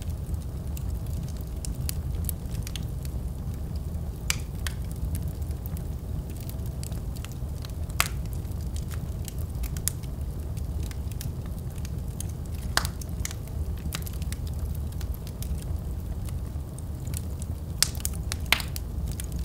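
Wood fire burning in a fireplace: a steady low rumble of flames with scattered sharp crackles and pops, a few louder pops near the end.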